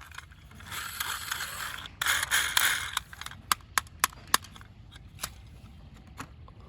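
Plastic toy vehicles being handled: rustling and scraping for about three seconds, then a run of short, sharp plastic clicks and clacks.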